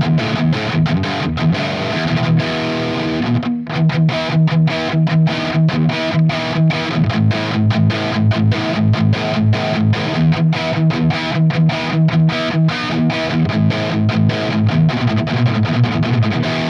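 Electric guitar played through an Earthquaker Devices Plumes overdrive on its clean boost setting into an amp, miked at a Mesa cabinet's V30 speaker, strumming quick rhythmic chords with a short break about three and a half seconds in. The tone is a classic rock type of tone.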